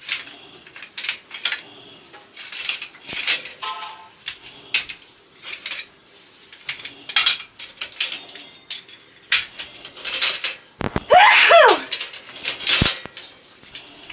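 Dishes and kitchen containers clinking and clattering as they are handled, with many short knocks. About eleven seconds in there is a loud squeak that falls in pitch.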